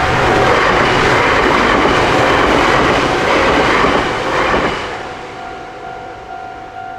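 Electric train running past a level crossing at close range, its wheels clattering on the rails; the rail noise cuts off sharply about five seconds in as the last car clears. The crossing's electronic warning bell keeps ringing in a steady repeating two-tone clang, heard clearly once the train has passed.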